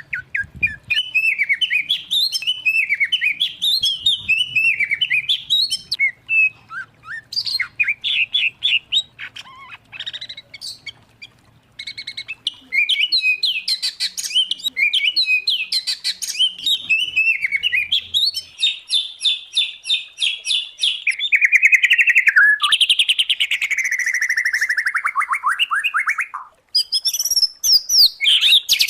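Songbirds singing a varied, continuous song of fast chirps and whistles: a mix of white-rumped shama (murai batu), oriental magpie-robin (kacer) and greater green leafbird (cucak ijo). About two-thirds through comes a run of rapid repeated notes, followed by long falling slurred phrases.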